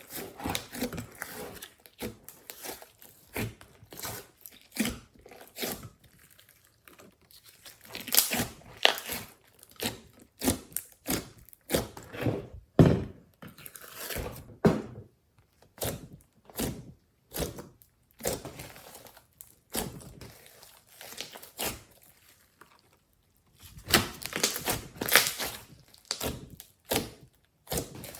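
Glossy slime mixed with clay and glitter being squeezed, poked and pulled by hand: irregular sticky clicks, pops and crackles, coming in clusters with short quiet gaps.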